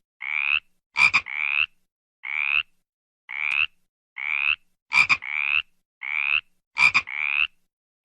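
A frog calling: a series of short croaks, each rising slightly in pitch, with a few quick doubled calls mixed in.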